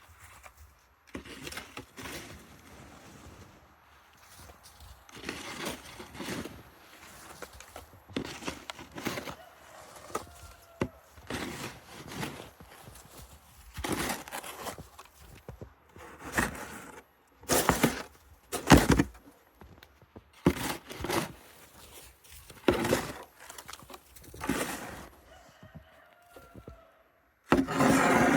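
Snow shovel digging into and scooping heavy, wet snow, in irregular crunching strokes about every second or two. The strongest strokes come about two-thirds of the way through.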